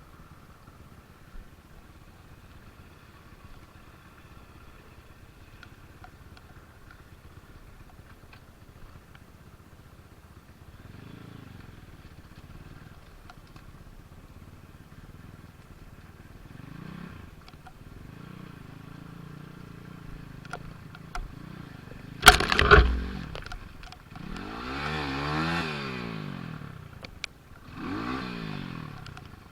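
Small motorcycle engine revving in rising and falling bursts, faint at first and strongest in the last few seconds. A sharp clatter comes about two-thirds of the way in.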